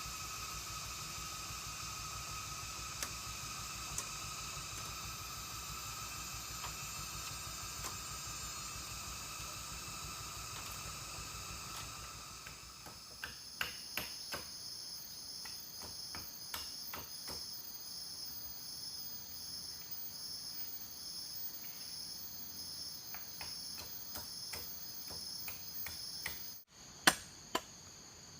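Forest insects chirping and buzzing in a steady chorus. About halfway through, the chorus gives way to a pulsing high chirp that repeats about once a second, with a few scattered taps. Near the end the sound cuts off abruptly and sharp chopping knocks begin in quick succession.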